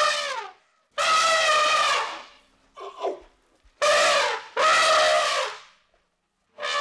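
Elephant trumpeting: a series of about six separate calls in a row, the longest lasting about a second.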